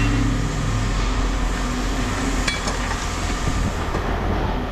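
A vehicle engine idling steadily, with a brief metallic clink of scrap metal about two and a half seconds in.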